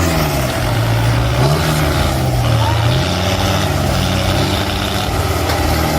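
Tractor diesel engine labouring under heavy load, its note rising and falling as it pulls.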